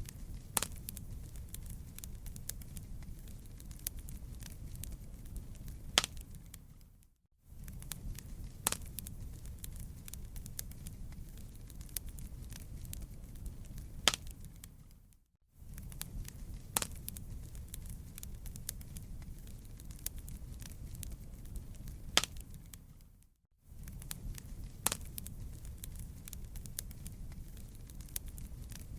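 Wood campfire burning, with a low steady rumble of flames and frequent sharp crackles, broken by several louder pops. The sound briefly fades out and back in three times, about every eight seconds, like a looped recording.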